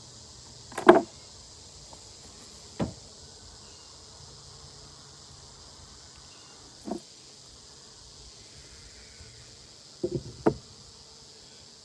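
Wooden knocks as beehive frames and boxes are set back in place: about five short ones, the loudest about a second in and two close together near the end. A steady high insect trill runs underneath.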